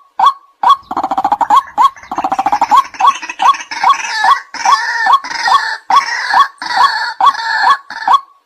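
White-breasted waterhen calling: loud, evenly repeated 'kwak' notes, about two or three a second. About a second in, these give way to two fast, rattling stutters, then to harsher, fuller notes that keep the same beat.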